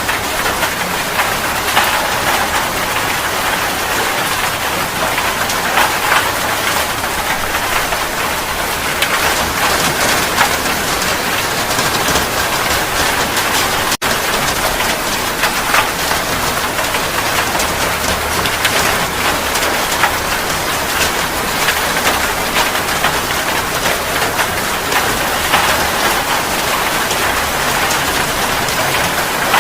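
Steady rain falling, a dense even hiss filled with many separate drop hits. There is a split-second break in the sound near the middle.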